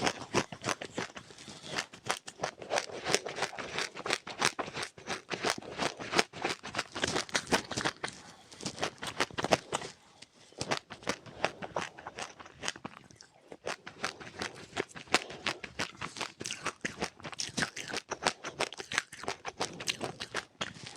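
Close-up chewing of seeds, a fast run of small crunches and crackles with brief pauses about ten and thirteen seconds in.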